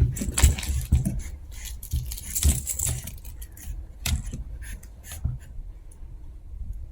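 Chihuahua puppies scuffling in play: claws scratching and bodies rubbing on a surface, with irregular scrapes, clicks and soft thumps, busiest in the first three seconds.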